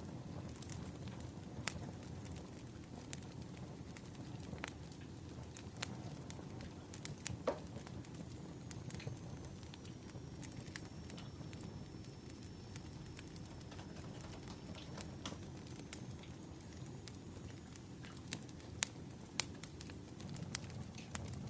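Wood fire crackling, with sharp pops at irregular intervals over a steady low rushing noise.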